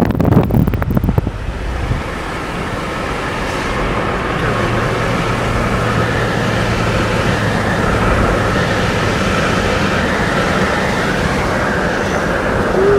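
Jeep driving at road speed heard from inside the cabin: steady engine and tyre hum with a low drone, with a few crackles in the first second or so.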